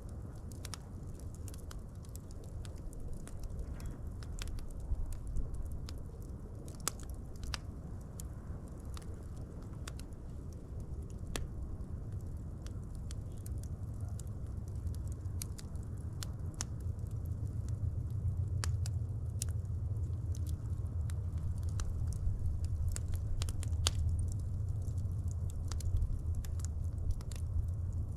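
Fire crackling, with scattered sharp pops and snaps over a low rumble of flame that grows louder in the second half.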